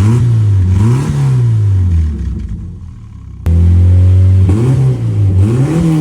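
Exhaust of a 1993 Jeep Wrangler YJ through a freshly installed Flowmaster FlowFX muffler, the engine idling and blipped up and down in several short revs. The sound jumps abruptly louder about three and a half seconds in.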